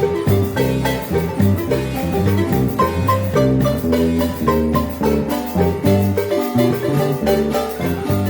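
Marimba band playing a lively tune: rapid mallet-struck wooden bar notes over a low bass line, in a steady rhythm.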